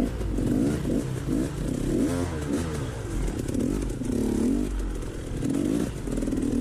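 Dirt bike engine being ridden over rough trail, its revs rising and falling over and over as the throttle is worked.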